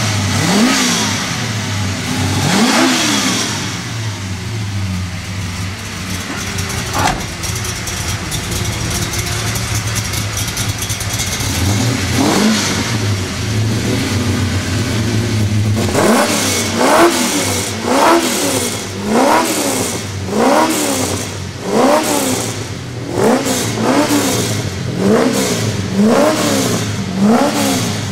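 Engine of a 1972 GMC Sprint resto-mod idling with a few single throttle blips in the first half. About halfway through, the revving becomes quick and repeated, rising and falling about once a second.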